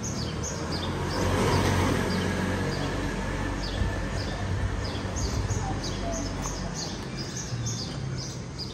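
Small birds chirping rapidly: short, high chirps that fall in pitch, several a second, over steady street noise that swells briefly about a second in.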